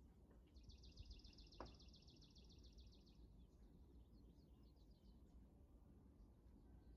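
A songbird singing one rapid, even trill of repeated high notes that lasts about two and a half seconds, followed by a few fainter chirps, over a faint low background hum.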